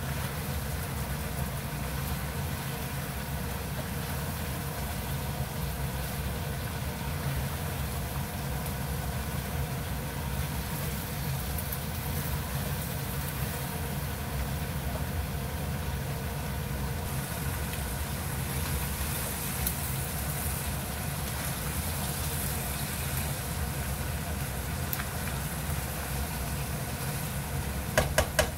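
Smoked duck slices, potatoes and onions sizzling as they are stirred in a hot pan over a steady low hum; the sizzle grows brighter a little past halfway. Near the end, a quick run of about four sharp taps, the spatula tapped on the pan.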